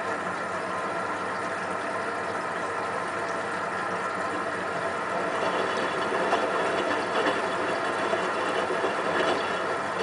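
Hotpoint WT960 washing machine running mid-cycle: a steady motor hum with a few light knocks, growing louder from about halfway through.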